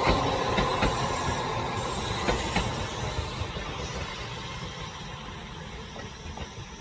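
A train running on rails, its wheels clicking over the rail joints, the sound fading steadily as the train moves away.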